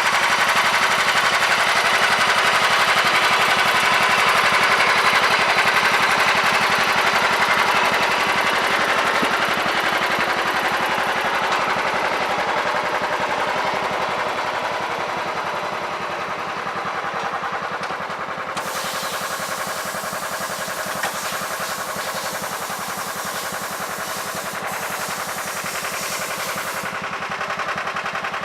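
John Deere 180 lawn tractor engine running after a cold start, with a rapid staccato exhaust beat; it eases off somewhat about halfway through.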